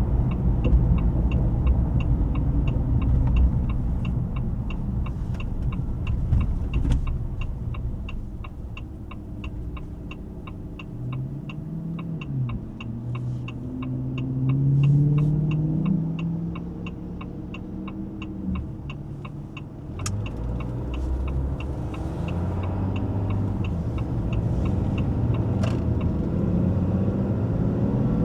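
A 2025 Ram 2500's high-output 6.7-litre Cummins inline-six turbo diesel running as the truck drives. It goes quieter through the middle, with the engine pitch rising and falling, then builds again near the end. A steady ticking about three times a second runs underneath.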